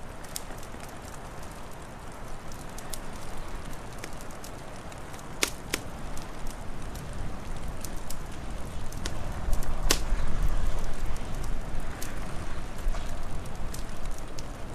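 Wood fire crackling, with scattered sharp snaps and two louder pops, over a steady hiss and low rumble that swells for a second or two near the middle.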